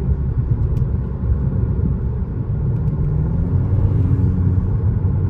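Kia K5 GT-Line's 1.6-litre turbocharged four-cylinder heard from inside the cabin with the windows up: a low drone and road rumble, the engine note rising gently a couple of seconds in.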